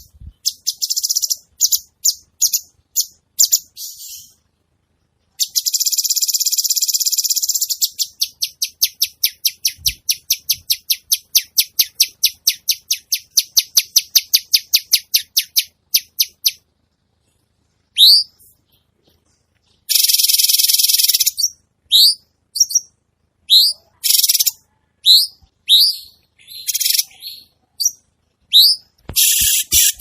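Songbird training recording ('masteran') of harsh, rough 'kasaran' fill-in calls. There are short high chirps, two harsh buzzy phrases, and a long run of fast repeated notes at about four a second, broken by brief pauses.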